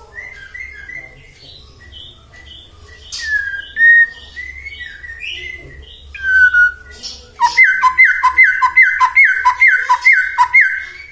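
White-rumped shama (murai batu) singing: a varied run of short whistles and chirps, then from about seven seconds a loud series of quickly repeated falling notes, about three a second.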